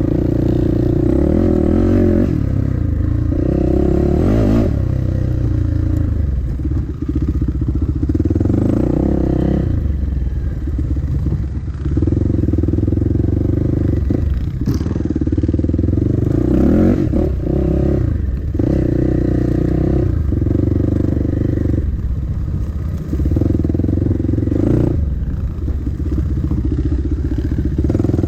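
Dirt bike engine running under constantly changing throttle, revving up and dropping back every few seconds, as heard from a bike on the trail.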